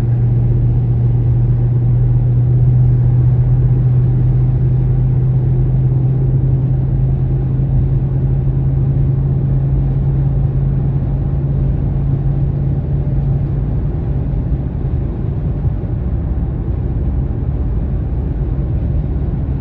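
Dodge Charger 392's 6.4-litre Hemi V8 cruising at freeway speed, heard from inside the cabin: a steady low exhaust drone over road rumble. The drone fades somewhat about fourteen seconds in.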